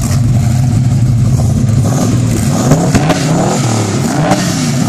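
Engines of a 1969 Ford Mustang and a 1974 Ford XB Falcon GT coupe with its 351 Cleveland V8 being revved against each other. A steady idle gives way, about two seconds in, to a string of short throttle blips, the revs rising and falling several times.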